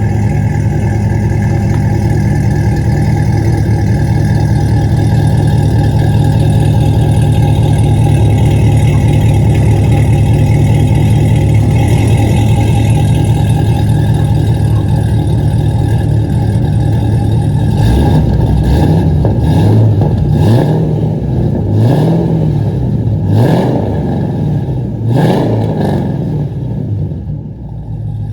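2011 Cadillac CTS-V's supercharged 6.2-litre V8 idling steadily through a new 3-inch exhaust with a Flowmaster muffler, then blipped in about five quick revs over the last ten seconds, each rising and falling.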